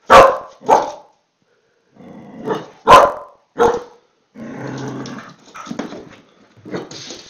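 A dog barking at a lemon held out to it: four sharp, loud barks in the first four seconds, then a longer rough growl and more broken barking and growling.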